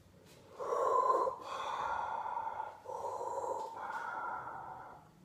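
A man breathing heavily inside a welding helmet with the mask down, in Darth Vader style: two slow breaths in and out, with a hollow ring from the helmet.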